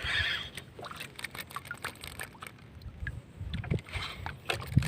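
Small paddle boat on the water: faint scattered knocks and light water noise against the hull.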